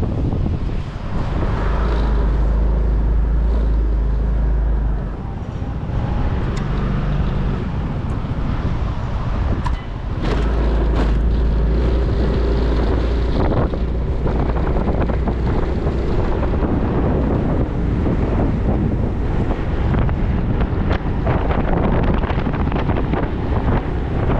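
Motorcycle engine running while riding, with wind rumbling on the microphone. The wind rumble is heaviest for a few seconds from about a second in, and again from about ten seconds in.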